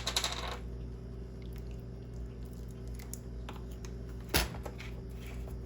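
Condiment bottles being handled at the stove: a few light clicks at the start and one sharp knock about four seconds in, over a steady low hum.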